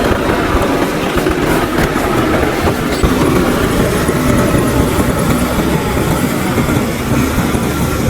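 Tractor running steadily under load as it cuts a wheat crop, its engine mixed with a continuous mechanical clatter.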